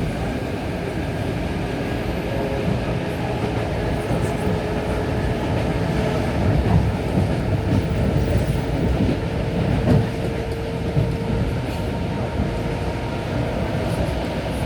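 Electric commuter train running on the line: a steady rumble of wheels on rails with a faint steady whine, and a few louder knocks about seven and ten seconds in.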